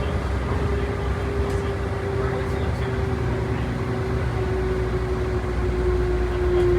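Ex-STA bus heard from inside while under way: the engine and drivetrain run with a steady low rumble and a whine that slowly falls in pitch.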